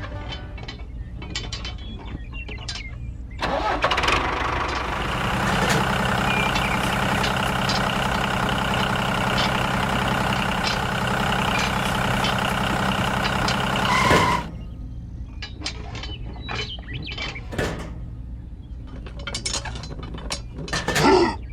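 An engine starts up about three seconds in, runs steadily for about ten seconds and cuts off suddenly. Scattered clicks and knocks come before and after it over a low rumble.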